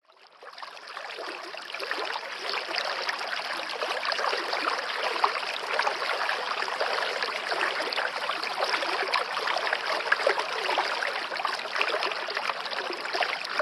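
Steady running water, fading in over the first two seconds.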